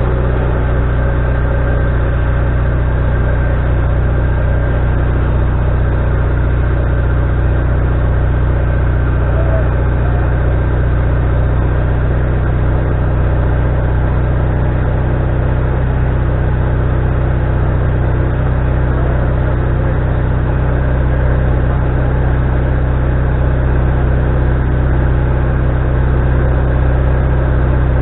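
Wood-Mizer LT40HD sawmill's engine running steadily at a constant speed, a low even hum with no change in pitch or load.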